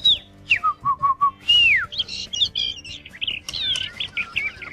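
A small bird chirping and whistling: a few short notes, then one falling whistle, then a quick run of tweets in the second half.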